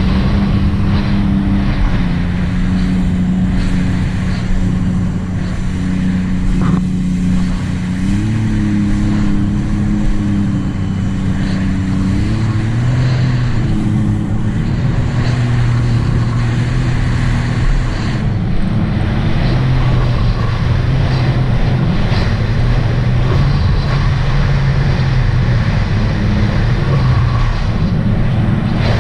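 2018 Sea-Doo RXT-X 300 personal watercraft running under way, its supercharged Rotax three-cylinder engine holding a steady drone. The engine note rises about a third of the way in, bends up and down a little later, then settles to a lower pitch.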